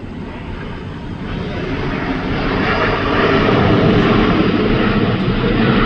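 Jet airliner's engines passing close by, the noise building over the first three seconds and then holding loud and steady.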